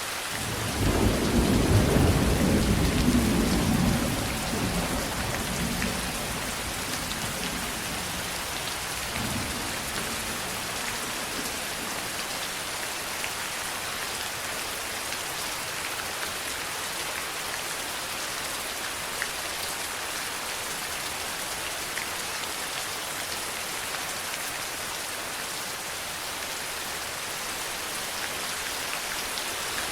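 Steady rain with a rumble of thunder about a second in that fades over a few seconds and a fainter rumble near the middle, then rain alone.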